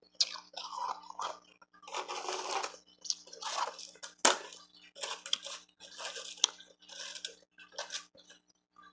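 Ice being crunched and chewed close to the microphone, a run of crunches with several sharp cracks as harder pieces break.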